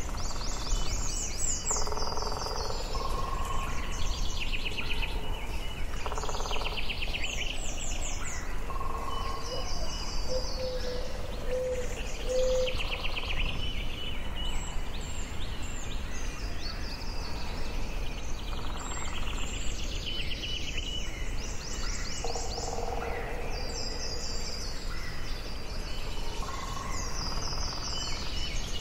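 Forest ambience: several songbirds singing, each phrase a quick run of rapidly repeated high notes, coming every few seconds, with some lower whistled notes between. A steady low background rumble runs under the birdsong.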